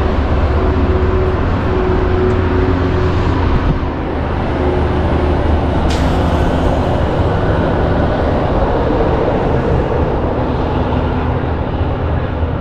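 Steady road and engine noise inside the cabin of a Ford Edge SUV driving at speed: a deep, even hum under tyre and wind rush. A single sharp click about six seconds in.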